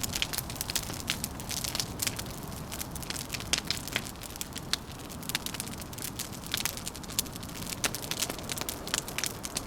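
Wood fire crackling, with many irregular sharp pops and snaps, over a low steady rumble.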